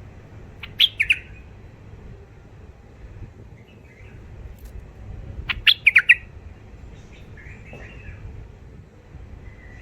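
Young male bulbuls calling: a quick run of three loud, sharp notes about a second in and four more around the middle, with softer chattering phrases in between.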